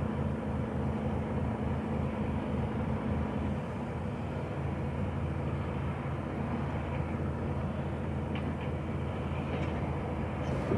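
Diesel engine of an HGV truck running, heard from inside the cab as a steady low, pulsing drone. A higher hum stops about three and a half seconds in, and a few faint light clicks come near the end.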